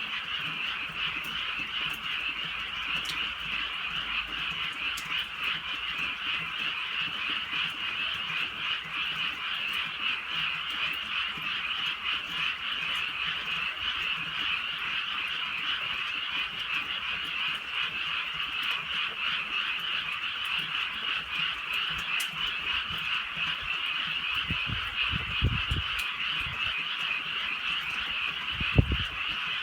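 A dense chorus of many frogs calling without a break, a steady high-pitched wall of overlapping calls. A few dull low thumps come near the end.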